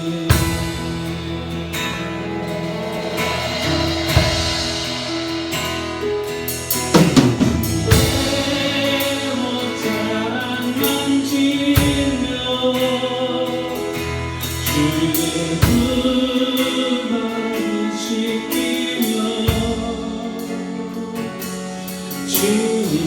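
Live church praise band playing a worship song, with singing voices over the instruments and drum kit hits.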